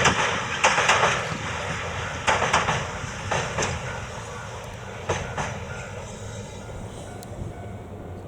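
Eight-car electric train running past and moving away: its wheels clack over rail joints, mostly in pairs, over a steady rumble. Both grow fainter as it recedes.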